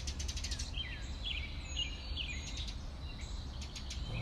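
Small birds chirping: a series of short, downward-sliding calls over a steady low rumble.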